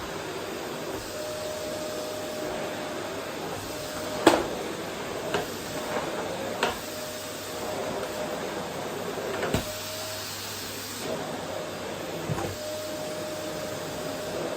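A vacuum cleaner running steadily on a wooden floor, with a steady hiss and a faint whine that drops out now and then. Several sharp knocks break through, the loudest about four seconds in and another near ten seconds.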